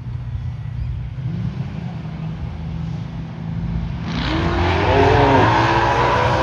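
Drag racing car engines rumbling at the start line, then about four seconds in they rev hard and launch, the engine note climbing in pitch as they accelerate away.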